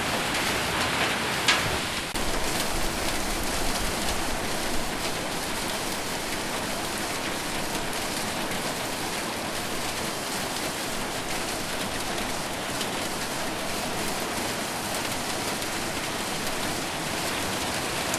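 Heavy rain with hail pelting a roof: a dense, steady rush of drops, with a few sharp ticks from hailstones in the first second and a half.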